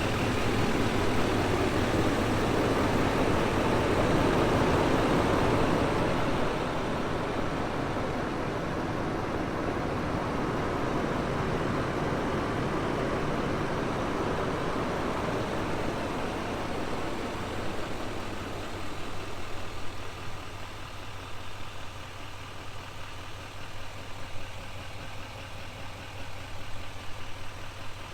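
A GMC Sierra 2500HD's 6.6-liter turbodiesel V8 idling steadily. It is louder for the first several seconds, then quieter, and quieter again in the second half.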